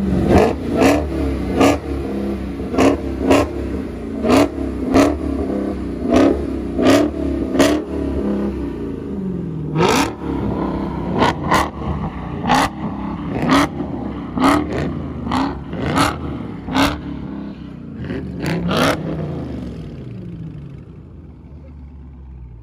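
Dodge Hemi V8 on its stock exhaust being blipped over and over, quick revs about one a second that rise and drop back, then settling to idle and fading near the end.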